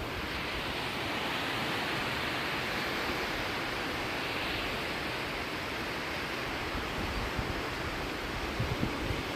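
Steady rushing of ocean surf and wind on the shore, swelling slightly a few seconds in, with no distinct events.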